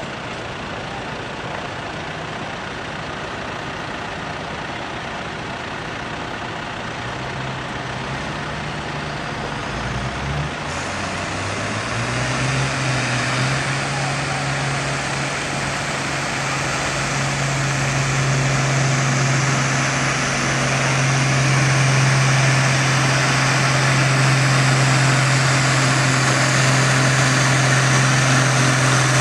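International 806 tractor engine working hard under load as it pulls the weight sled. It is held at a steady high speed, with the pitch settling about twelve seconds in and the sound growing louder toward the end.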